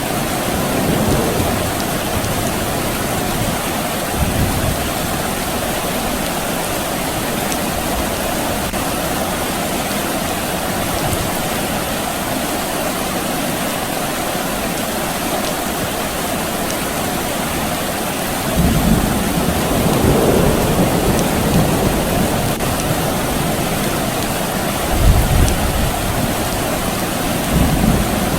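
Steady rain falling, with low rumbles of distant thunder. The rumbling is strongest from about two-thirds of the way in, swelling several times.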